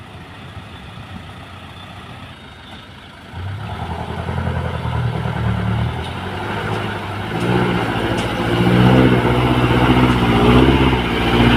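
Dump truck engine running low, then revving up sharply about three seconds in and louder again a few seconds later, its pitch wavering up and down.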